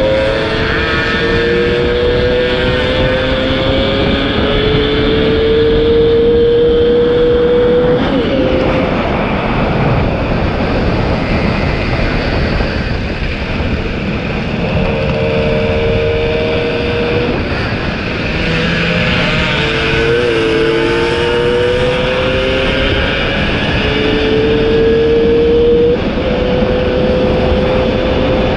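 Two-stroke motorcycle engine pulling hard at speed. Its pitch climbs slowly through each gear and breaks off and resumes several times at the gear changes, over a steady rush of air noise.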